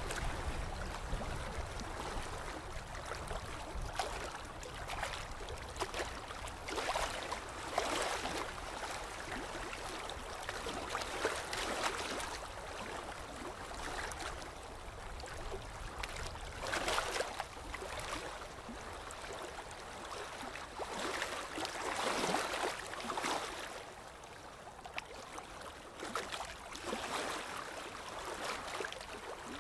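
Water splashing and lapping, a continuous wash that swells into louder splashes every few seconds.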